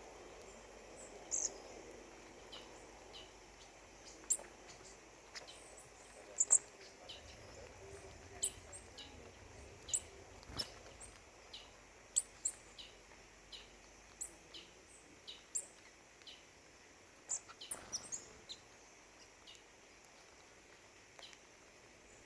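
Birds giving short, high chip calls at irregular intervals, some in quick pairs or clusters, over a faint steady background hiss.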